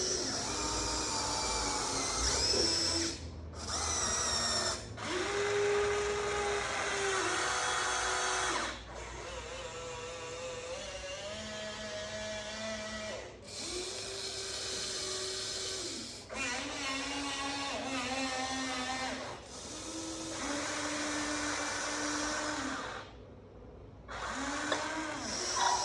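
Small electric motors of a Huina 1593 RC excavator whining as its functions are worked one after another: runs of a few seconds, each at its own steady pitch, stopping and starting with short breaks.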